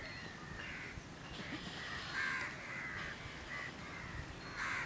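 Birds calling off in the trees, a string of short calls repeating one to two times a second.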